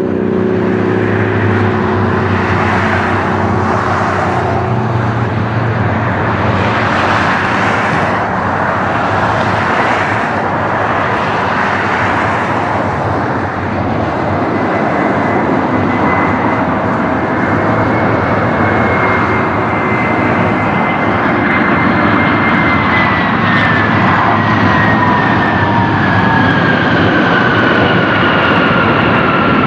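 Jet airliner's engines running loud and steady, with a high whine that slowly falls in pitch over the last third.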